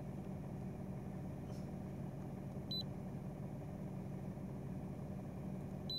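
Vauxhall Corsa E engine idling steadily, heard from inside the cabin. Two short high beeps from the handheld OBD2 scanner's keypad come as its buttons are pressed, one near the middle and one at the end.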